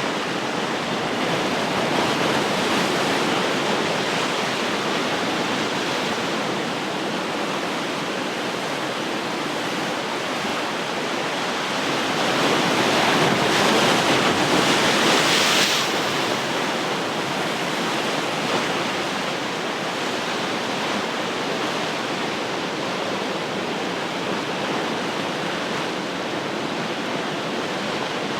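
Ocean surf: a steady wash of waves with one wave breaking more loudly about halfway through, a rising hiss that peaks and then falls away.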